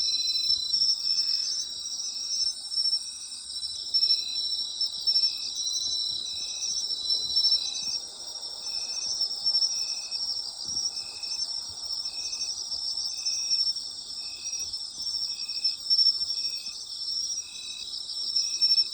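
Chorus of night-singing autumn insects with continuous high trills. Over it, one insect chirps at a steady rhythm, about once a second.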